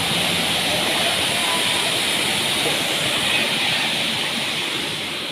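Waterfall pouring: a steady rushing of falling water, easing a little near the end.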